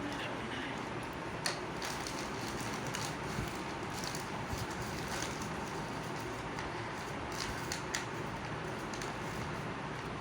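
A parcel's packaging being opened by hand: scattered crinkles and clicks over a steady background hiss.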